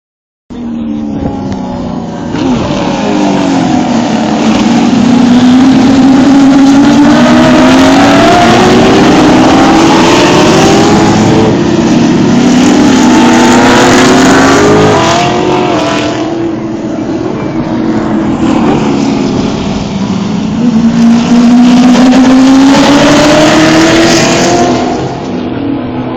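Classic V8 muscle race cars passing one after another through a corner. Several engines overlap, each rising in pitch as it accelerates and dropping back at gear changes. It is loudest for much of the first half, dips in the middle of the second half, and swells again near the end.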